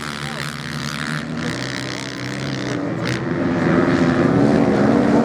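Motorcycle engines running hard on a beach race, their pitch rising and falling as they rev, growing louder in the second half as they come nearer.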